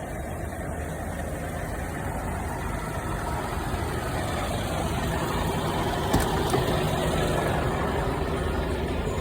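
Scania truck's diesel engine running steadily and growing gradually louder, with one sharp click about six seconds in.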